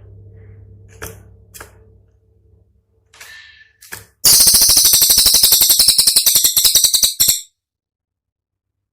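Cililin songbird calling: a few faint short notes over a low hum, then, about four seconds in, a loud, rapid, high-pitched trill of sharp notes at about fourteen a second that lasts some three seconds and stops abruptly. This is the dense 'tembakan' (rapid-fire) phrase.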